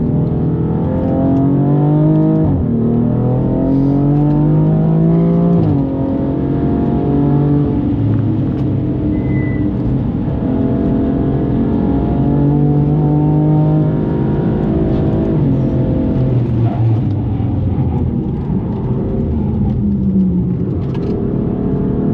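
Twin-turbo inline-six of a tuned BMW M4 on upgraded track turbos, pulling hard under full throttle. Its pitch climbs and drops sharply at two upshifts in the first six seconds, then it runs at steadier high revs with a couple of dips.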